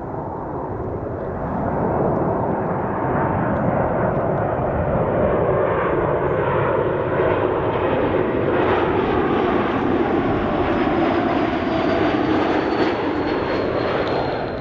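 Jet airliner's engines on landing approach passing close by: a loud, steady rush with a thin high whine that glides slowly downward through the second half.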